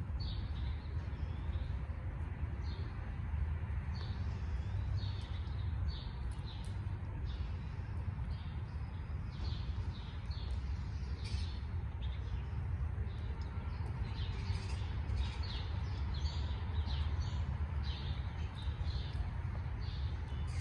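Small birds chirping in short, high calls repeated all through, over a steady low rumble.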